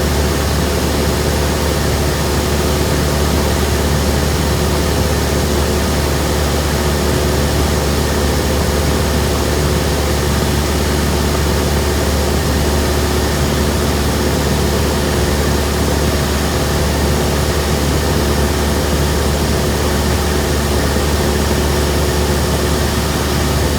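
Cessna 172M's four-cylinder Lycoming O-320 engine and propeller running steadily in flight: a loud, unchanging deep drone with an even hiss over it.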